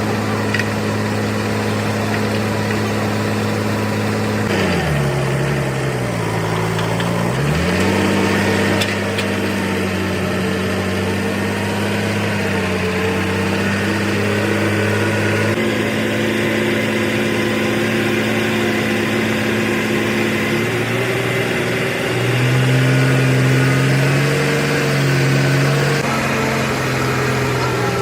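Bulldozer diesel engine running steadily. About five seconds in its speed drops sharply and comes back up a couple of seconds later. Later it speeds up a little for a few seconds.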